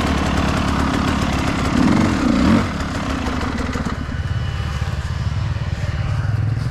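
Enduro dirt bike engine blipped up and back down about two seconds in, then running at low revs with an even low beat.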